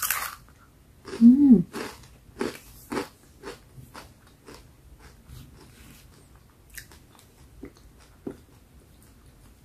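Crisp bite into a dried long-bean (yardlong bean) vegetable chip, then crunchy chewing, about two crunches a second, loudest about a second in and fading out after about five seconds.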